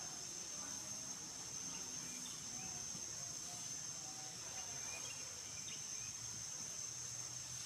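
Steady high-pitched drone of insects, such as crickets or cicadas, with a few faint scattered chirps over it.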